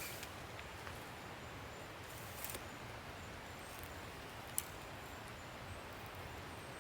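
Faint steady outdoor background hiss with a few short, sharp clicks or snaps, the loudest a single click about four and a half seconds in.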